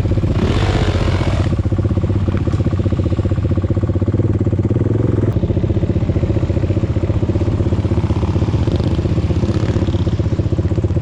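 Off-road vehicle engine running steadily under way, with a brief rush of wind-like noise about half a second in.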